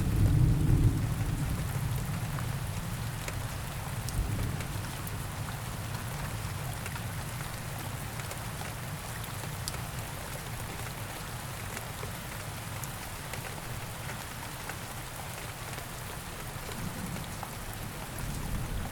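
Steady rain falling, with scattered distinct drops ticking on near surfaces. A low thunder rumble dies away over the first couple of seconds, and a fresh rumble starts to build at the very end.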